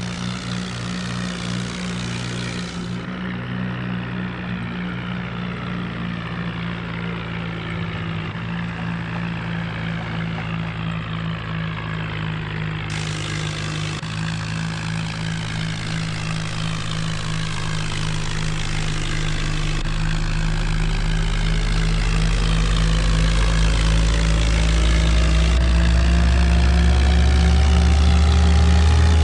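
HMT tractor diesel engine running steadily, then speeding up in the last third with a rising pitch and growing louder.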